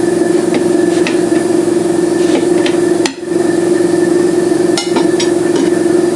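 Shop air compressor running with a steady hum, briefly dropping out about three seconds in, while metal tools click and knock against the tire changer and rim.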